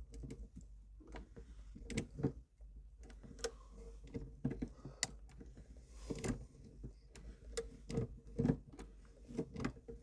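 Plastic e-brake button being twisted off the threaded end of a handbrake lever through a rag. Irregular clicks, creaks and scrapes of the plastic and the gripping tool are heard, over a steady low hum.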